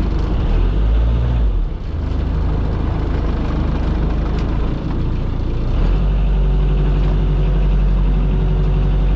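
Boat engine running continuously; about six seconds in its note becomes steadier and a little louder.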